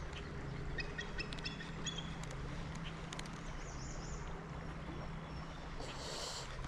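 Bald eagle calling overhead: a quick run of short, high chirping notes in the first couple of seconds, over a steady low hum.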